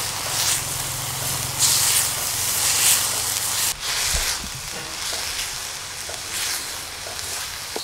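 Chopped pumpkin stems and grated coconut sizzling as they stir-fry in a pan over a wood fire, with brighter swishes as a wooden spatula turns them. Just past halfway the sound breaks off abruptly and carries on as a quieter hiss.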